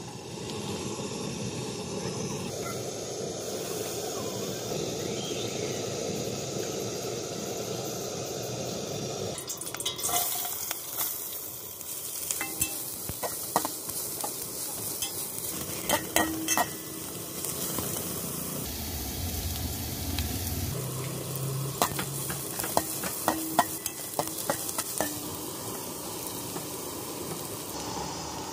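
Chopped onions sizzling in hot oil in a steel pan, stirred with a metal spatula that scrapes and clicks against the pan from about ten seconds in. Before that, a steady hiss of the pan heating on the gas burner.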